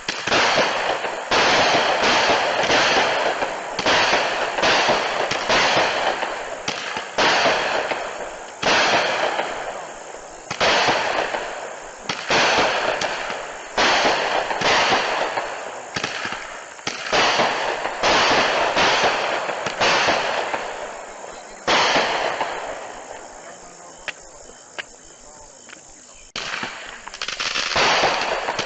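Consumer 200-gram firework cake firing, a string of about a dozen and a half shots roughly one a second, each bang trailing off over about a second. The shots pause briefly late on, then start again near the end.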